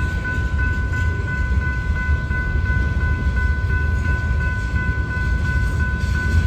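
BNSF freight train with four diesel locomotives, an SD70ACE among them, rolling past: a steady low rumble of engines and rolling cars. Steady high ringing tones sound over the rumble throughout.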